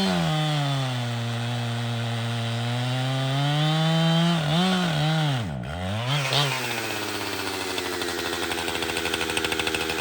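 Echo CS-7310 two-stroke chainsaw running at high revs. Around the middle the engine speed drops sharply and picks up again twice, then it settles lower with a pulsing beat and slowly falls away as the tank runs dry.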